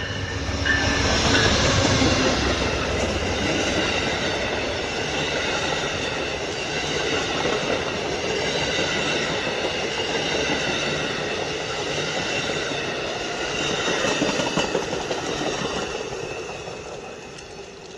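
Amtrak passenger train passing at speed, led by diesel locomotive 202: the locomotive goes by loudest in the first couple of seconds, then the passenger cars roll past with a steady rumble of wheels on rail and faint high steady tones. The sound fades away near the end as the last car passes.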